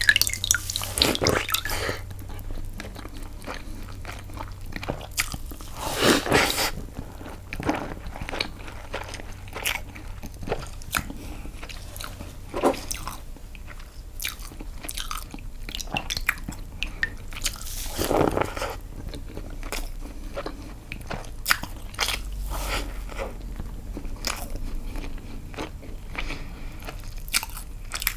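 Close-miked eating sounds: biting and chewing castella sponge cake dipped in milk, with a steady run of wet mouth clicks and a few louder bites, about a fifth of the way in and again about two-thirds through.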